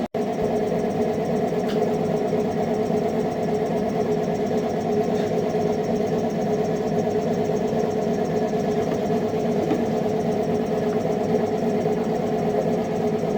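Restored boat engine running steadily at idle, with an even, unchanging note and a momentary break just at the start.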